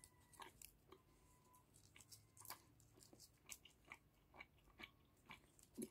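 A person chewing a large piece of chewing gum with the mouth: faint, irregular wet clicks, roughly one every half second to a second.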